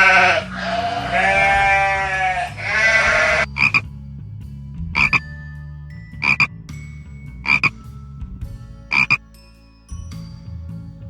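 An animal bleating three times in long calls, then a frog croaking five times in short sharp calls spaced about a second and a half apart.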